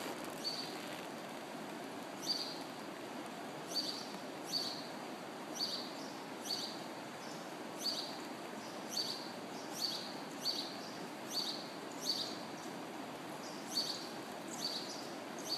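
A bird chirping over and over, a short high chirp roughly once a second at an uneven pace, over a steady background hiss.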